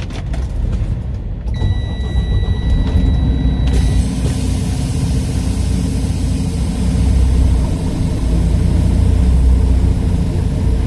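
Semi-truck diesel engine running as the day cab pulls up, heard from inside the cab. A steady high tone sounds for about two seconds near the start, and a steady hiss comes in about four seconds in and keeps going.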